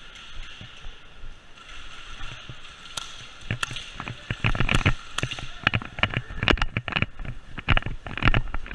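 An irregular clatter of sharp knocks and clicks with some low thuds, starting about three and a half seconds in and coming in loud clusters. Before that, a faint steady high hiss.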